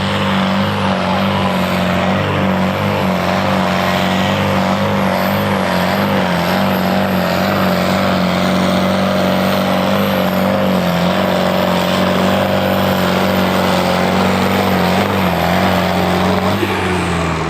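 Ford 5000 tractor's engine at full throttle, dragging the weight sled down the pulling track, its pitch held high and steady with small dips, a thin high whistle over it. Near the end the engine drops off and winds down as the pull finishes.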